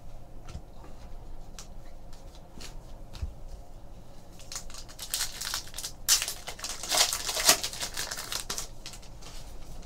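A trading card pack wrapper being torn open and crinkled, with light ticks of cards and wrappers being handled at first, then a louder stretch of crinkling and tearing about halfway through.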